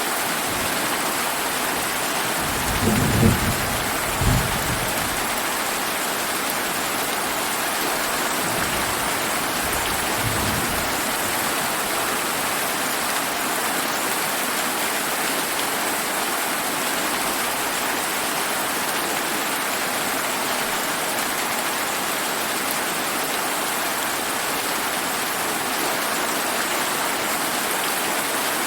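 Steady heavy rain, with a low roll of thunder about three seconds in and a fainter rumble of thunder around ten seconds.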